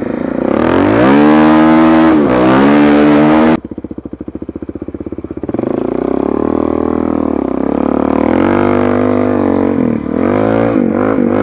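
Motorcycle engine revving and pulling away, its pitch rising and then holding. The sound cuts off suddenly about three and a half seconds in. It comes back a couple of seconds later, the engine pitch rising and falling several times as the bike accelerates.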